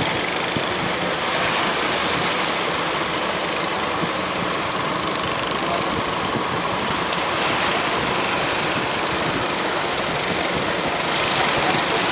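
Big sea waves breaking as surf: a loud, steady rush of water that swells several times as waves come in.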